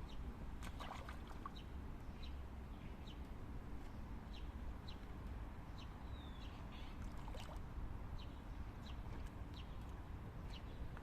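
A small songbird chirping outdoors: short, high, falling chirps repeated every second or so, over a steady low rumble.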